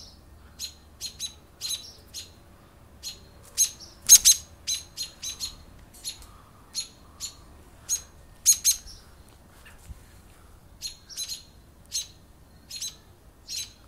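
A nesting bird giving short, sharp, high alarm calls over and over at an irregular pace, often in quick pairs, the loudest about four seconds in: defending its nest against an intruder.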